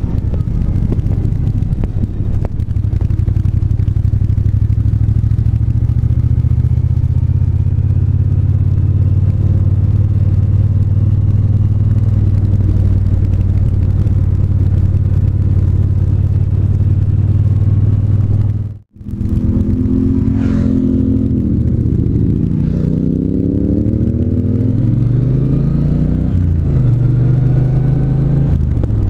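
Triumph motorcycle's parallel-twin engine heard from the rider's seat, running at a steady cruise with road and wind noise. The sound cuts out for an instant about two thirds of the way in, then the engine note rises and falls several times as the bike accelerates and shifts gears.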